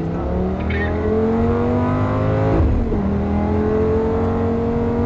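Lamborghini Gallardo V10 under hard acceleration, heard from inside the cabin. The revs climb, then an upshift about two and a half seconds in drops the pitch before it climbs again.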